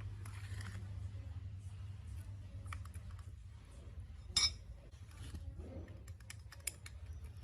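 Light clicks and metallic clinks of small parts and tools being handled, with one sharper click about four and a half seconds in, over a low steady hum.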